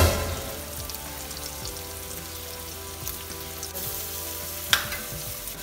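Sliced onion, ginger and garlic sizzling in oil in a nonstick wok, over faint background music. There is a loud sudden burst right at the start and a sharp knock, likely the spatula against the pan, near the end.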